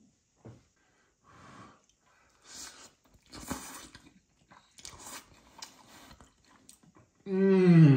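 A man chewing a mouthful of spicy Buldak ramen noodles and chewy tteokbokki rice cakes, a string of soft wet chewing noises. Near the end a loud, drawn-out vocal sound from the eater cuts in.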